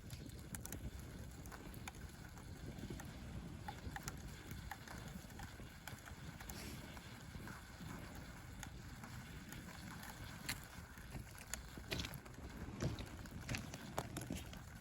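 Driftwood campfire crackling with scattered sharp pops, a few louder ones near the end, over a steady low rumble of seaside wind and surf.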